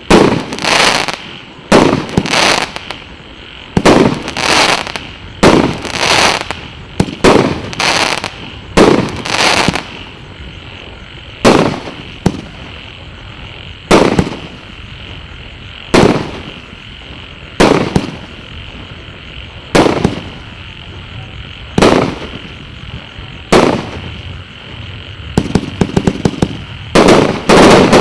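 A 49-shot, 1.2-inch consumer fireworks battery (cake) firing shot after shot; each is a sharp bang that fades over about a second. The shots come about two a second at first, then slow to about one every two seconds, and near the end a quick run of short pops breaks out.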